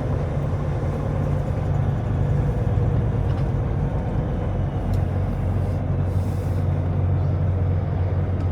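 Semi truck's diesel engine running steadily at low speed while the rig is maneuvered, with a brief hiss about six seconds in.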